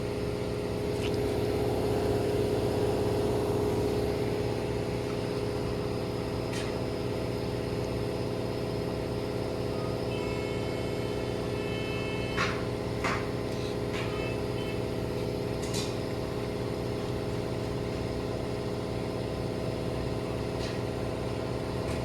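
Steady mechanical hum with an even, pitched drone, slightly louder in the first few seconds. Midway through, a short series of high electronic beeps and a few sharp clicks cut through.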